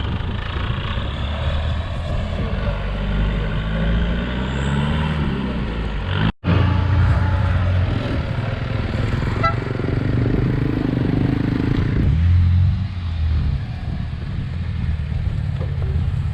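Off-road vehicle engine running hard, revving up and down. The sound cuts out abruptly for a moment about six seconds in.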